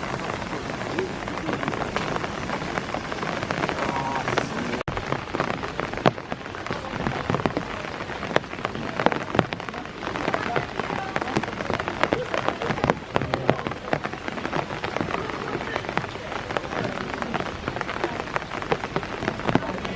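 Steady rain pattering, with many sharp, close drop hits over a dense hiss.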